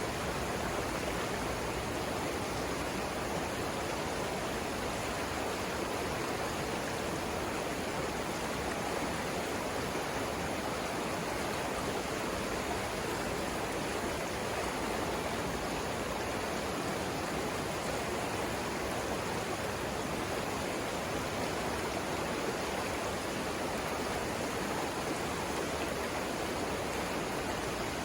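The Savannah River flowing over rapids: a steady, even rush of water with no breaks.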